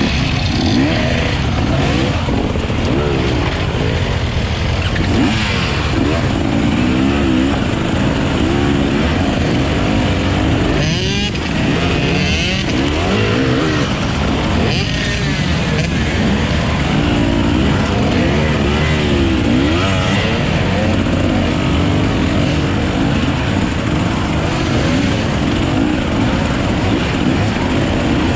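Off-road enduro motorcycle engine revving up and down again and again under a rider's throttle, loud and steady throughout.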